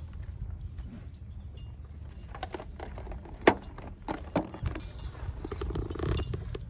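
Scattered light clicks and knocks, with one sharp knock about three and a half seconds in, over a low steady rumble.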